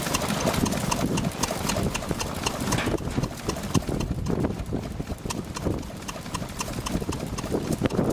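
1920s Crossley petrol-paraffin stationary engine running, a steady rhythmic clatter of evenly spaced knocks.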